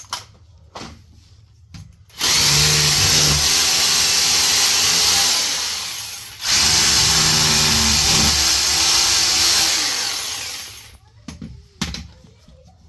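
Electric power drill run twice, about four seconds each time, its motor whirring down with a falling pitch at the end of each run.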